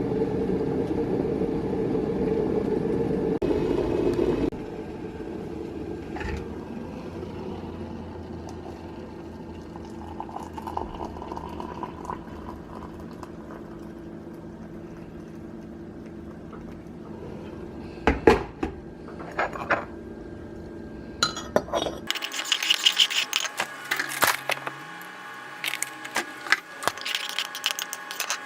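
A steady appliance hum that drops off sharply about four seconds in, then clinks of mugs, a spoon and dishes while tea is made, growing dense near the end.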